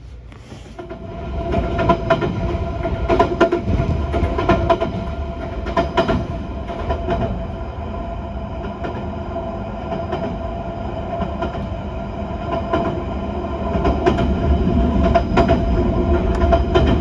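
Train running on rails, with wheels clacking over rail joints every second or so over a steady whine; it starts up quickly about a second in and keeps going.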